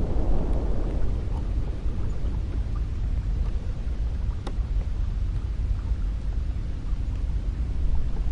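Cold wind blowing steadily, a deep, low-pitched noise without pauses, with a faint click about halfway through.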